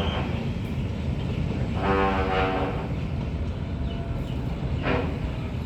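Freight train of tank wagons passing, with a steady rolling rumble and two short pitched sounds on top, one about two seconds in and one near the end.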